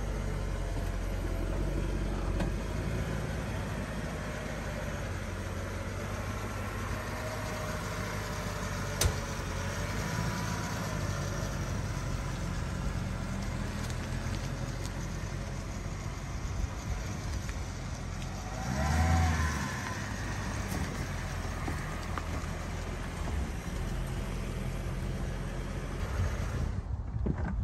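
Mercedes SLK 55 AMG's 5.4-litre V8 fitted with a RennTech carbon fiber intake airbox, running as the car drives past at low speed. A steady low rumble, with one sharp click about nine seconds in and a brief rev that rises and falls about nineteen seconds in, the loudest moment.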